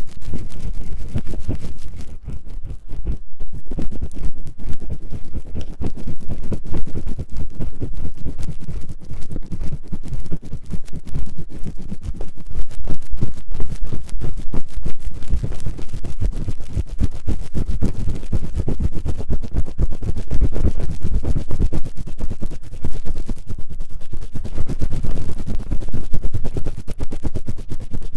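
An ear-cleaning tool scratching fast and vigorously inside the silicone ear of a 3Dio binaural microphone. The strokes come densely and without pause, close and loud, heaviest in the low range.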